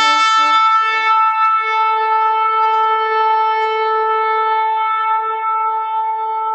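Shofar sounding one long held blast. It starts on a lower note for about a second, then steps up to a higher note with many bright overtones and holds it steadily.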